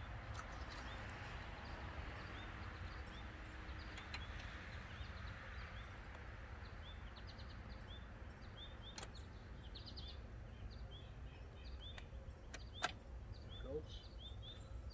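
A small bird chirping over and over, short high chirps about two a second, over a low steady background hum. A couple of sharp clicks come close together near the end.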